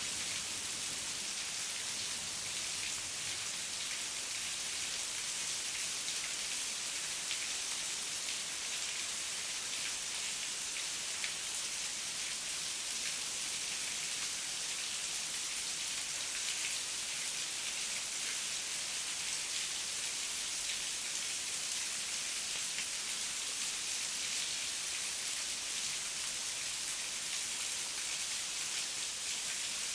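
Heavy rain falling steadily, an even high hiss thick with the ticks of individual drops.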